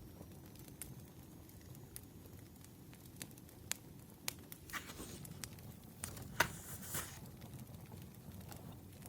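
Wood fire crackling: scattered sharp pops and snaps over a low hiss, the loudest pop a little after six seconds, with a couple of brief rustling sounds.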